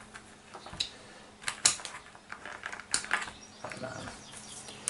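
Light clicks and taps from handling a meter and its test leads on a workbench, coming irregularly in ones and twos, the sharpest about a second and a half in and around three seconds. A faint steady hum runs underneath.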